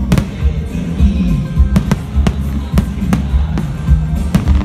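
Aerial fireworks shells bursting in a string of sharp bangs at irregular intervals, about one every half second, over loud music with a deep bass line.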